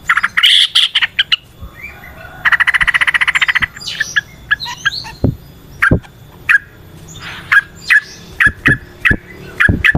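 Yellow-vented bulbul (trucukan) singing: a bubbly phrase near the start, a fast rattling trill about two and a half seconds in, then a string of short, clipped notes repeated two or three times a second.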